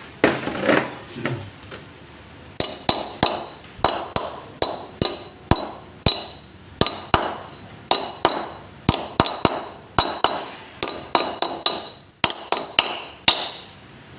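A hammer striking metal in a long series of sharp blows, about three a second, each leaving a short metallic ring, after a brief clatter of handling at the start.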